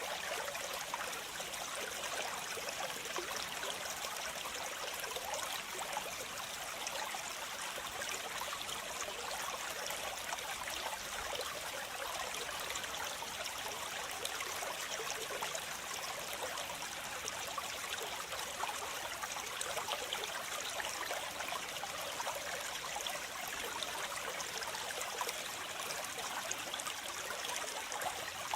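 Waterfall: a steady rush of splashing water, bright and hissy with little low rumble, unchanging throughout.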